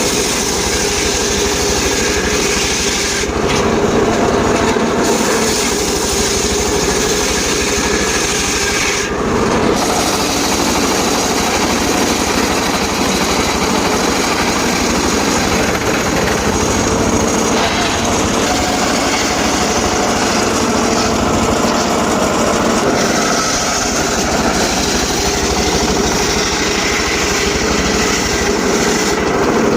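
Portable engine-driven circular sawmill running loud and steady, its blade sawing through teak wood, with the engine's hum under the noise of the cut. The high hiss of the cut changes briefly at about three seconds and again at about nine seconds.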